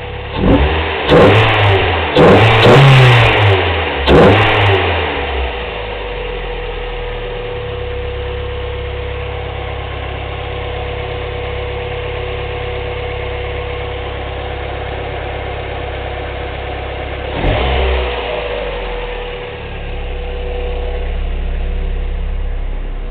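Mazda Miata's 1.8-litre BP four-cylinder with a ported head, breathing through an aftermarket bolt-on muffler, being revved in several quick throttle blips over the first five seconds and then settling to a steady idle. One more short blip comes about 17 seconds in.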